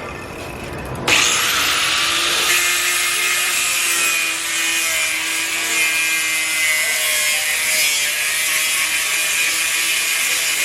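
Power cutting tool, likely a cut-off grinder, spinning up about a second in and cutting steadily through a steel strut cup: a loud, even hiss with a steady whine.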